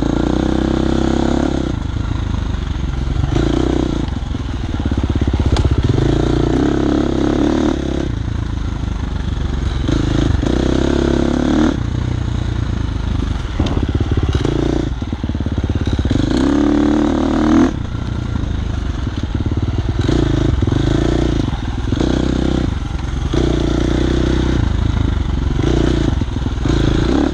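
Dirt bike engine running under load on a twisty trail, its pitch rising and falling every second or two as the throttle is opened and rolled off through the corners, with a sharp rise in revs about two-thirds of the way in.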